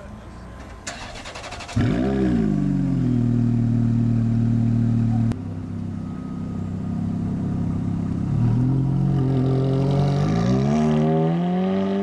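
Ferrari F430 V8 starting up about two seconds in, flaring briefly and settling to a steady idle. After a sudden break it pulls away and accelerates, its pitch rising, dropping at a gear change and rising again.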